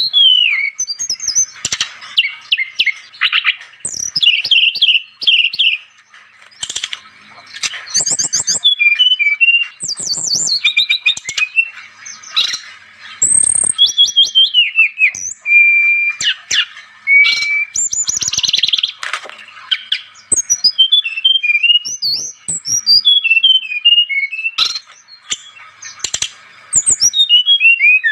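Brown-chested jungle flycatcher (SRDC) singing vigorously. It gives a continuous run of varied whistles, trills and quick chattering phrases, many notes sweeping rapidly up and down, with short pauses between phrases.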